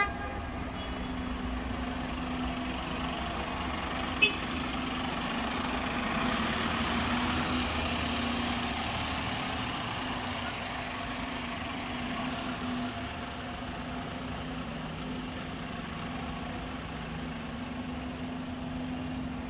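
A motor vehicle's engine idling with a steady low hum under even street noise; a single sharp click about four seconds in.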